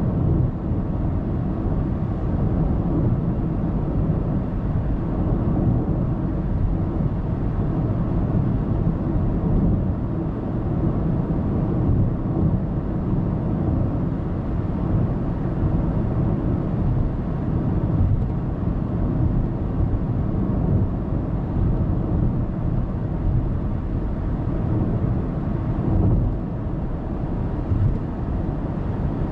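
Steady road noise of a car cruising on an expressway, heard from inside the cabin: an even low rumble of tyres and engine with no distinct events.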